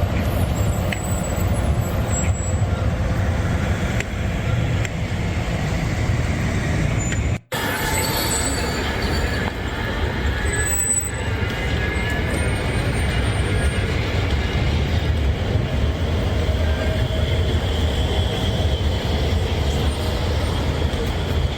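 Steady low rumble of city street traffic, broken by a brief moment of silence about seven seconds in.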